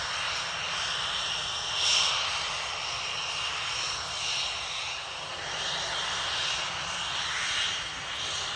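Panavia Tornado jets' RB199 turbofan engines running, a steady rush with a high whine that swells a few times.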